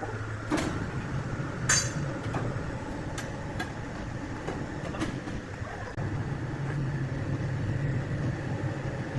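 Large sawmill wood saw machinery running: a steady low mechanical hum with scattered knocks and clinks. About six seconds in the hum rises in pitch and gets louder.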